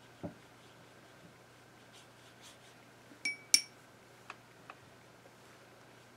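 Two quick clinks of a paintbrush against a glass water jar, a quarter second apart, each ringing briefly, while colours are being picked up and mixed. A few fainter ticks and a soft knock at the start.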